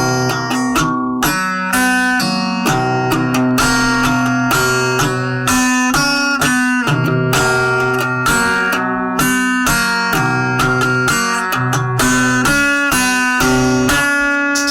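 Guitar music without vocals: a melody of plucked notes played over sustained bass notes.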